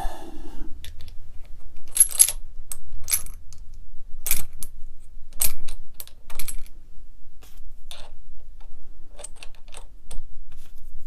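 Small metal parts of an AEG BH25 rotary hammer clicking and clinking against each other and the shaft as they are fitted on by hand during reassembly. The sharp clinks come irregularly, about one a second.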